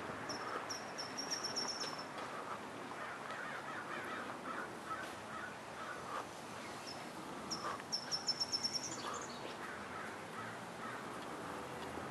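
Small birds calling: a quick run of high chirps in the first two seconds and another, faster run about eight seconds in, over faint steady outdoor background noise.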